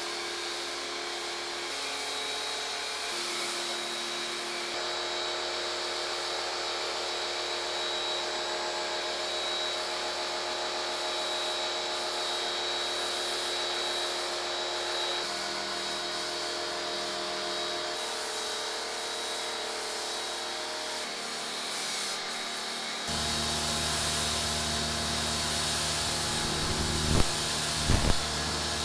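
Pressure washer running, spraying pre-wash foam through a foam cannon: a steady motor-and-spray hiss with held tones. About three-quarters of the way through it gets louder and deeper, and a few sharp knocks come near the end.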